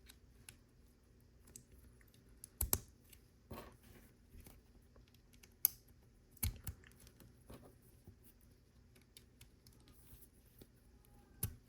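LEGO plastic pieces being handled and pressed onto a build: faint, scattered clicks and taps, with about half a dozen sharper clicks spread through.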